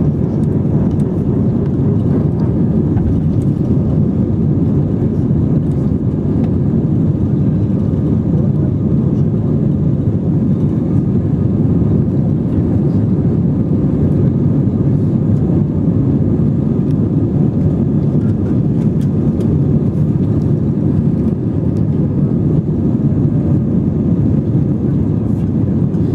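Steady jet airliner cabin noise heard from a passenger seat: a deep, even roar of the engines and airflow.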